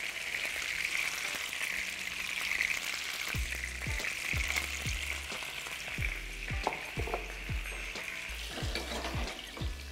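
Chicken pieces sizzling in hot frying oil, a steady crackling hiss. From about three seconds in, a low thudding beat of background music joins it.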